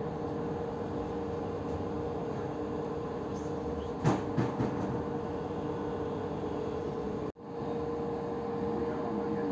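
Commuter train running, heard from inside the carriage: a steady rumbling hum with a faint whine held at one pitch. A short clatter of knocks comes about four seconds in, and the sound cuts out for an instant just after seven seconds.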